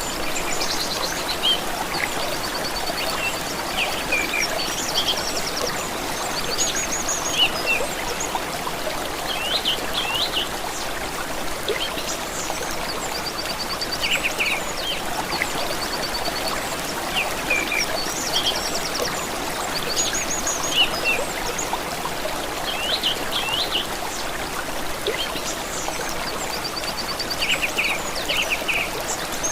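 Steady running water, like a stream or brook, with several songbirds singing over it in short trills and quick chirps throughout.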